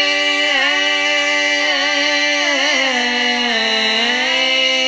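Isolated male vocal harmony with no instruments: several voices holding one long drawn-out sung note that bends slowly down and back up in pitch. This is a vocal stem separated out by AI from the full band recording.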